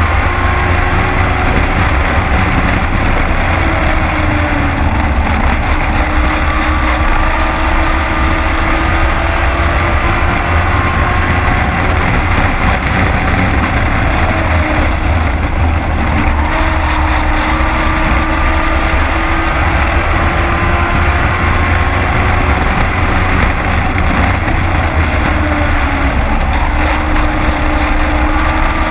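Race truck's engine heard from inside the cab at racing speed, its pitch slowly rising and falling every few seconds as the driver goes on and off the throttle around the oval, over a heavy low rumble.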